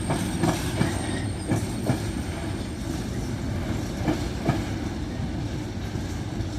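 A train moving through the station, its wheels clacking over rail joints in pairs of quick knocks over a steady rumble, with a thin high whine that fades out about halfway.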